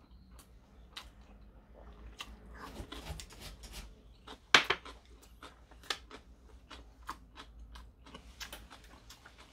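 Close-up mouth sounds of a person chewing rice and noodles, with sharp clicks of chopsticks on a ceramic cup. The loudest click comes about four and a half seconds in, another near six seconds.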